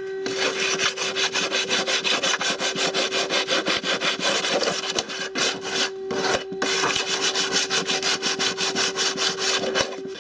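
Sandpaper being rubbed by hand along the sawn plastic edge of a washing machine tub, in quick, even back-and-forth strokes with a short pause about six seconds in. The sanding roughens the cut surface so sealant will grip it.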